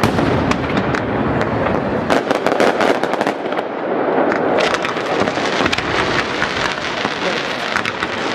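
Aerial fireworks display: many sharp cracks and pops over a dense, continuous crackle.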